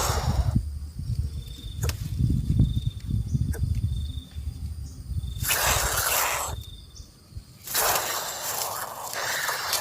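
Coucal chick hissing in repeated harsh bursts of about a second each, the snake-like defensive hiss of a young coucal, over a low rumble.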